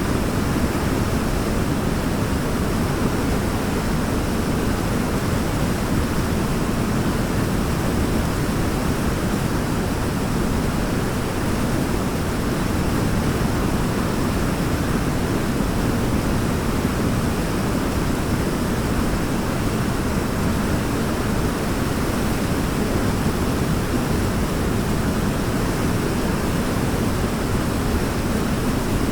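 Waterfall: a steady, even rush of falling water, deepest and strongest in the low range, without breaks or changes.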